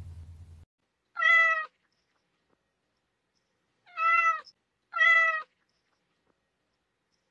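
Domestic cat meowing three times, each meow about half a second long, the last two about a second apart.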